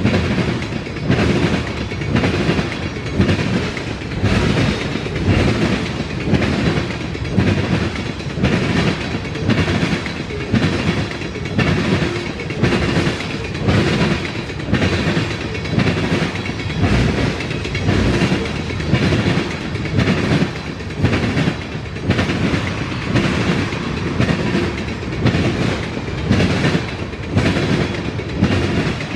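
Freight train cars rolling past, their wheels clicking over the rail joints in a steady clickety-clack about once a second.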